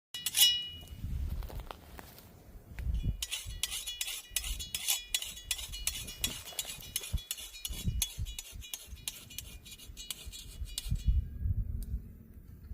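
Rapid, irregular clinking and jingling of small ringing objects, over an uneven low rumble; the jingling stops about eleven seconds in.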